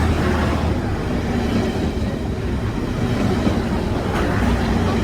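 Train running along the track: a steady rumble of wheels and carriage.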